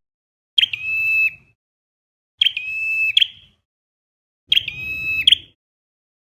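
Recorded flowerpecker calls played back as a trapping lure. Three matching calls about two seconds apart, each a sharp note, a held whistle, and a sharp closing note.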